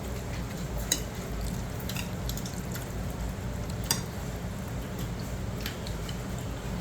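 Eating sounds: a few light clicks, as of utensils against a bowl, and soft wet squishing and slurping noises over a steady low hum.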